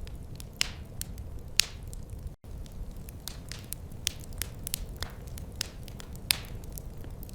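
Wood fire in a fireplace crackling, with irregular sharp pops over a steady low rumble of the flames. The sound drops out for an instant about two seconds in.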